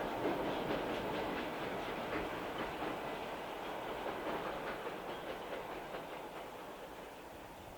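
A passing electric train's wheels clicking over rail joints as it moves away, the sound fading steadily.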